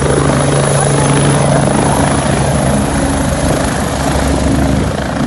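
Helicopter running, a loud steady noise with a constant low hum.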